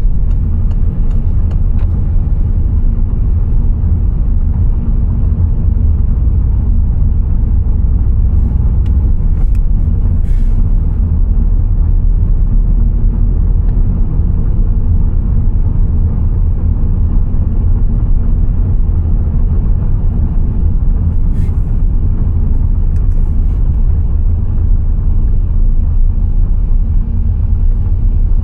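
Car driving on the road: a steady, loud low rumble of road and engine noise, with a few faint clicks.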